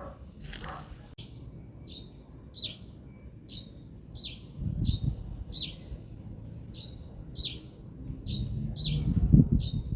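A small bird calling a short, falling chirp over and over, about twice a second. Wind gusts rumble on the microphone around the middle and again near the end.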